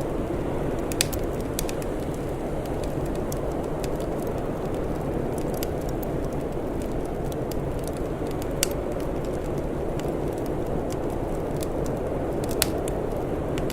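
Wood fire crackling with scattered sharp pops, three of them louder than the rest, over a steady low rushing noise.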